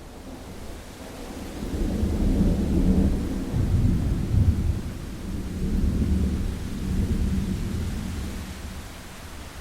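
Thunderstorm: steady rain hiss under a long, deep rolling rumble of thunder that builds over the first few seconds, peaks, rolls on in a second swell and slowly fades.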